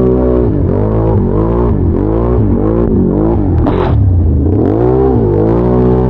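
Big-bore Can-Am Renegade ATV engine revving up and down as the throttle is worked on and off. The pitch drops and climbs again about once a second, with a longer dip around the five-second mark.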